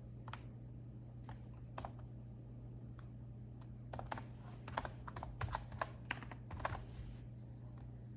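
Typing on a laptop keyboard. A few scattered keystrokes come first, then a quick run of key presses about halfway through that stops near the end, all over a faint steady low hum.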